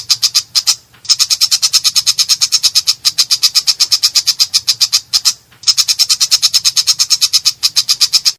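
Long-tailed shrike (cendet) giving a harsh, rapid rattling chatter of about eight sharp notes a second, in three long runs broken by two brief pauses.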